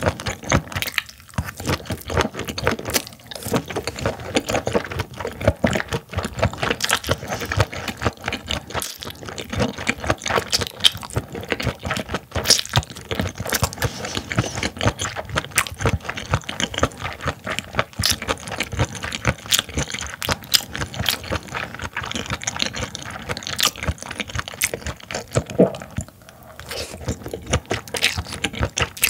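Close-up wet chewing of whole steamed baby ear squid: a steady run of soft squelching, smacking clicks from the mouth.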